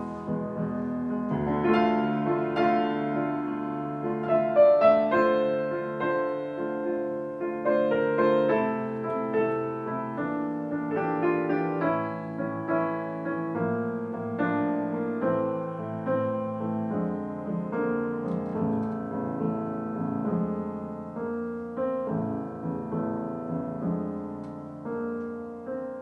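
Solo piano playing a slow, gentle piece, notes and chords sounding one after another.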